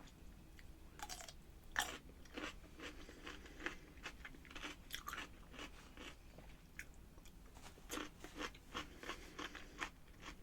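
Close-miked chewing with many crisp, irregular crunches: a person biting into and chewing sliced garlic baby dill pickles.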